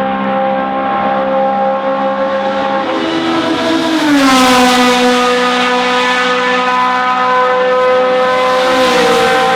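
Historic racing car engine running hard at high revs. Its pitch falls about three seconds in as it gets louder, and falls a little again near the end.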